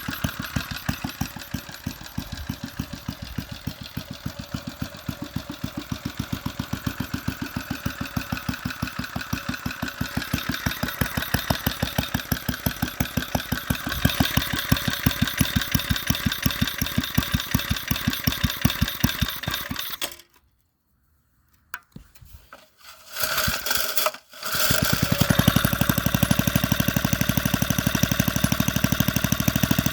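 Briggs & Stratton single-cylinder engine running at a slow idle, each firing pulse distinct in an even beat. About two-thirds of the way through it cuts out, with a few short sputters, then runs again, louder and steadier.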